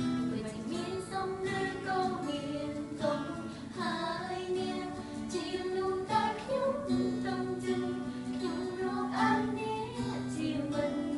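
Amateur voices singing a song over a strummed acoustic guitar, recorded on a phone.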